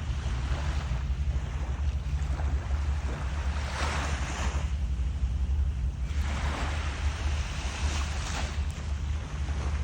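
Waves washing in, swelling up a few times, with a steady rumble of wind on the microphone.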